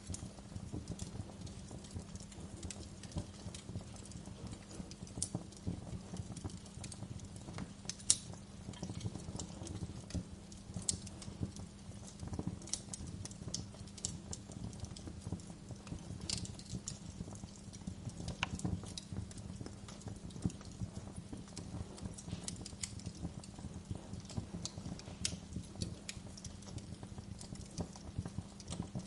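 Wood fire crackling: a dense, irregular run of pops and snaps over a low, steady rumble.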